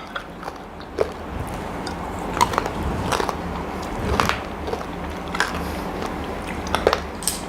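A person chewing a crisp homemade corn nacho chip dipped in salsa: sharp, irregular crunches roughly once a second.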